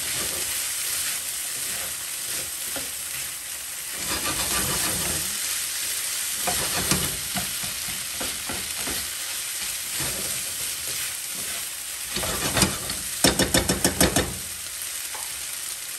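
Minced chicken and carrots sizzling in a non-stick pan as they are stirred and scraped, with a quick run of sharp taps on the pan a little over three-quarters of the way through.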